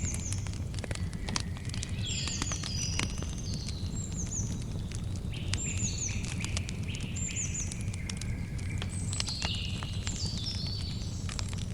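Campfire crackling with frequent sharp pops over a low steady rumble, while birds chirp over it in short, high, repeated calls, several of them falling in pitch.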